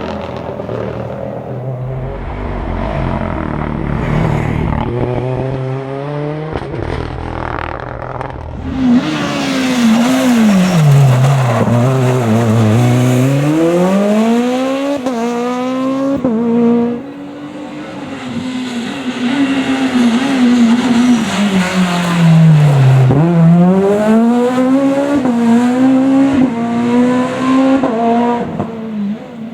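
Rally car engine on a special stage, heard faintly at first and then loud about nine seconds in, revs climbing and dropping sharply again and again with gear shifts, lifts and braking. A second loud stretch of hard revving runs through the later part.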